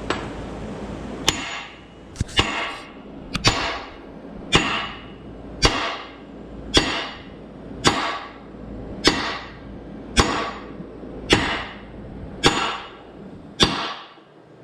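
A hammer striking metal about a dozen times at a steady pace of roughly one blow a second, each blow ringing briefly.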